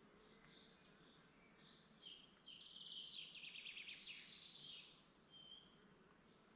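Faint woodland birdsong: several songbirds, with one fast trilling phrase from about one and a half to four and a half seconds in, then scattered short chirps over a soft steady background hiss.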